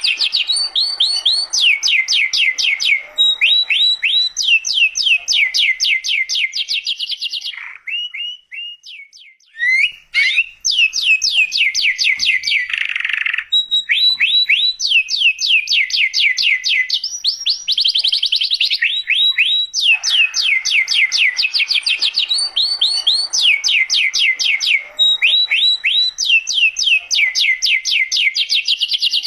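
Domestic canary singing vigorously: long rapid trills of fast-repeated rising notes, switching from one trilled phrase to the next, with a brief break about a third of the way in.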